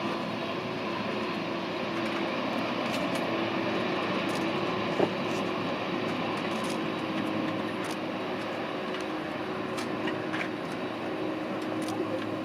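Boeing 747-400 jet engines running steadily, heard from a distance as a continuous rush with a faint steady hum. There is a single sharp click about five seconds in.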